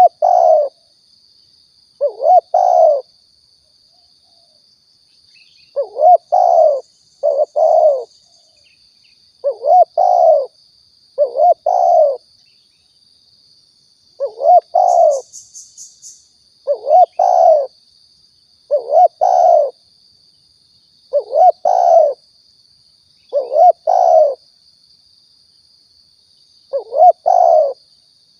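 Spotted dove (tekukur) cooing in repeated short phrases of two or three low coos, about one phrase every two seconds. A steady thin high-pitched whine runs underneath.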